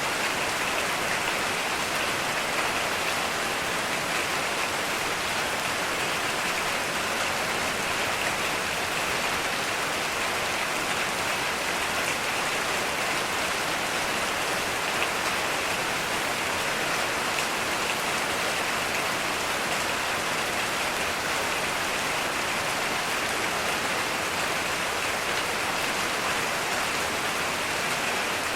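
Heavy rain falling steadily, an even hiss of rain on surfaces with no let-up and no thunder.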